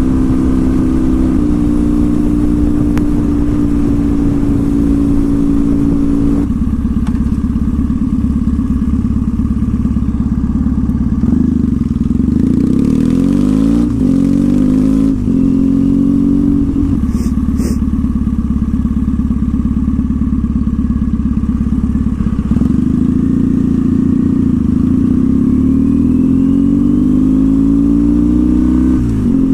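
2014 Triumph Thruxton's parallel-twin engine under way through slash-cut TT exhaust pipes. The engine note rises and falls through acceleration and gear changes, with a long climb in the second half that falls away sharply at the end.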